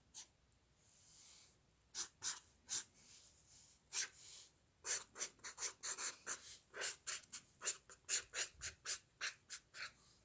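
Short strokes of a drawing tool scratching across paper: a few separate strokes, then from about five seconds in a quick run of short strokes, about four a second.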